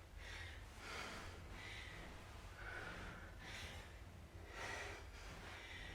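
Faint heavy breathing during exertion: airy breaths about once a second, over a low steady room hum.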